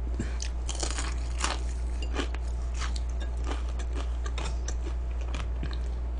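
Close-up crunching and chewing of crispy fried chicken: a run of irregular crackly bites and chews over a steady low hum.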